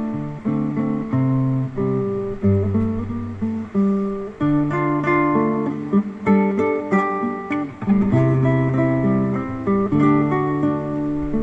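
Instrumental interlude of a song's accompaniment between sung verses: a single instrument, plucked-string in character, playing a melody over chords, with no voice.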